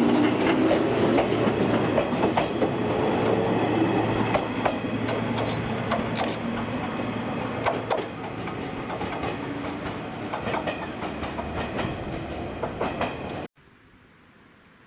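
Old JNR-type electric train running on the rails, wheels clicking over the rail joints, with a faint whine that shifts in pitch; the sound slowly fades, then cuts off abruptly near the end.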